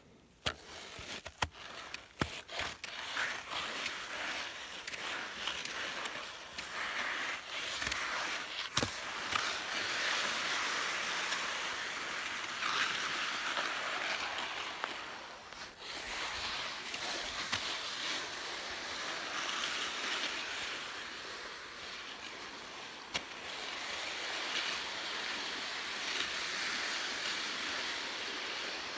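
Skis sliding and scraping over snow: a hiss that swells and eases as turns are carved, with a few sharp clicks and knocks in the first nine seconds.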